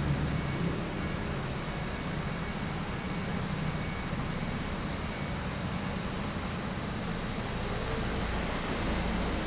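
A steady background rumble and hiss with no distinct events.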